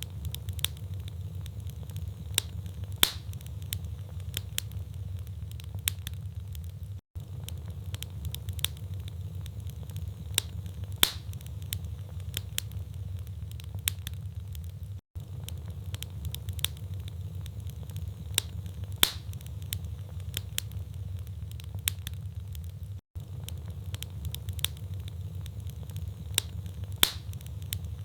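Wood fire in a fireplace: logs crackling, with irregular sharp pops over a steady low rumble of burning. The sound cuts out briefly about every eight seconds.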